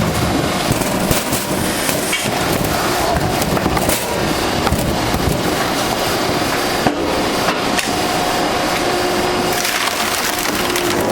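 Jangsa WP-140 hydraulic firewood splitter forcing logs apart on its automatic line: wood cracking and splintering in repeated sharp snaps over a steady machine hum.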